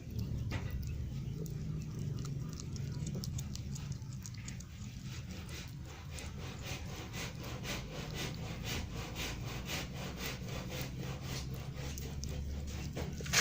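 Kitten chewing a dead rat, a quick run of small wet clicks and crunches, about four a second, getting more regular about halfway through.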